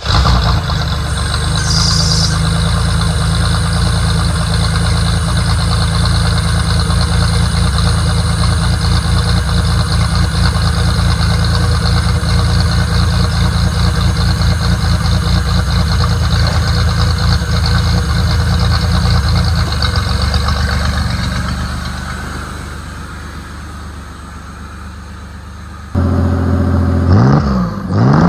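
1986 Pontiac Fiero's V6 running through a newly welded exhaust with a Thrush muffler, idling steadily just after start-up. It goes quieter after about twenty seconds, then comes back louder with a couple of quick revs near the end.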